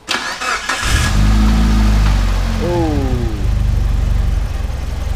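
Mitsubishi Lancer Evolution IX's turbocharged 4G63 inline-four cranked on the starter, catching about a second in with a brief flare of revs, then settling to a steady idle. The engine is being run to bleed air bubbles out of a freshly refilled cooling system.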